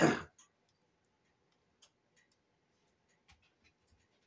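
Eating sounds close to the microphone: a short, loud burst of noise at the very start, then a few faint, scattered mouth clicks from chewing.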